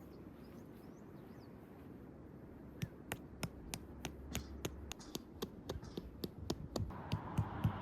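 Tent stakes being hammered into the ground: sharp knocks a few per second, starting about three seconds in and growing louder toward the end.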